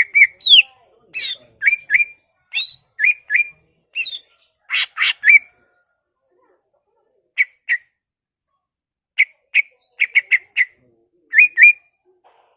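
Cucak ijo (greater green leafbird) singing: a string of short, sharp notes, each sliding down to a similar pitch, given in quick pairs and triplets, with a pause of about two seconds midway.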